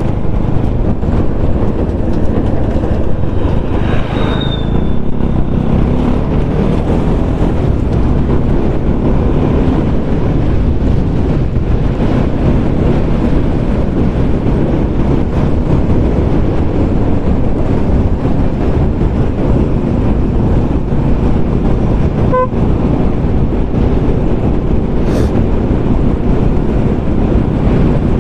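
Motorcycle riding noise: steady engine and road noise with heavy wind rush on the microphone. A brief beep sounds about 22 seconds in.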